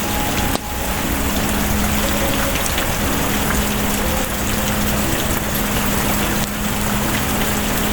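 Steady heavy rain, with a low steady hum beneath it and a few faint crackles of a wood fire. The sound briefly drops away about half a second in.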